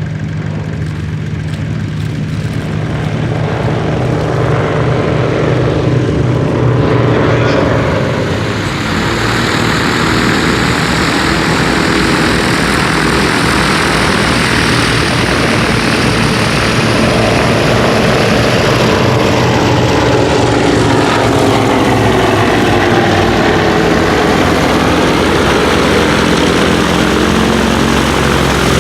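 Vintage twin piston-engined propeller aircraft flying past, the engine drone building over the first several seconds and sliding in pitch as they pass.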